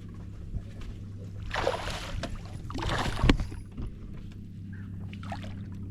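Water splashing twice at the side of a small skiff, the second splash ending in a sharp knock, over a steady low hum.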